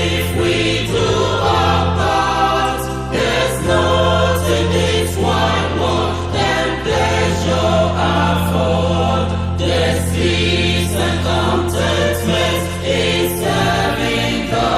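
Gospel choir music: voices singing in harmony over a sustained bass and a steady beat.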